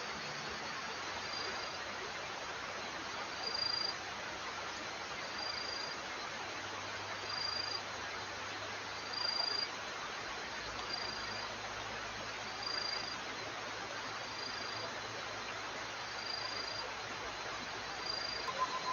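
Wild insect chorus, a steady dense hiss of calling insects, with a short high chirp repeating evenly about every two seconds.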